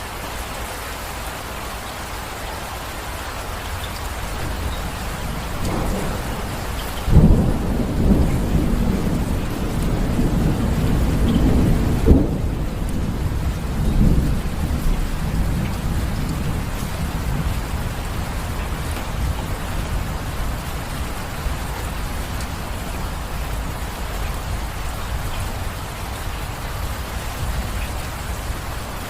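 Steady rain falling, with a thunderclap about seven seconds in that rumbles on, swelling again twice, and dies away after several seconds.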